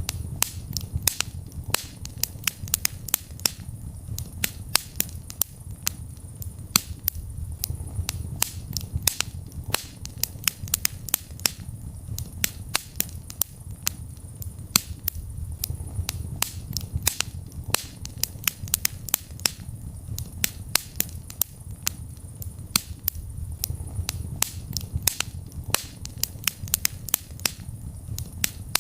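Wood fire in a fireplace crackling: many sharp irregular pops and snaps, several a second, over a steady low rumble of the flames.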